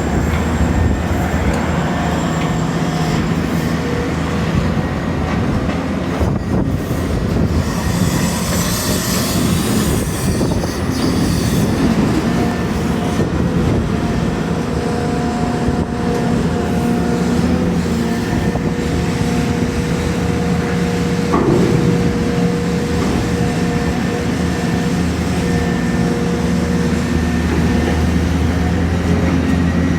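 Diesel engines of excavators running steadily under load with a droning hum and a steady hydraulic whine while unloading logs, with a brief hiss about eight seconds in.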